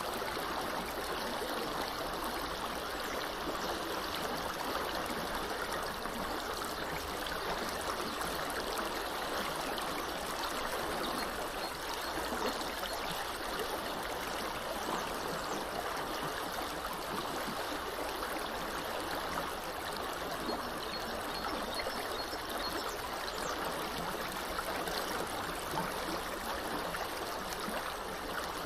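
Small river flowing steadily, an even rushing and babbling of water. Twice, a faint run of quick high bird chirps sounds over it.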